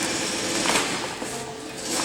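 Boat tent fabric being handled and folded: irregular rustling and scraping, with a louder scrape about three-quarters of a second in.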